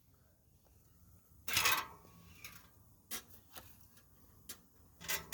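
Scattered clinks and knocks of hard objects being handled, with one louder clatter about one and a half seconds in and a few lighter clicks after.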